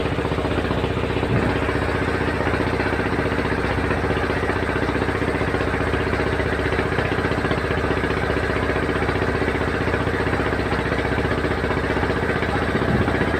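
Boat engine running steadily at an even speed, a constant low mechanical drone with a fast regular pulse.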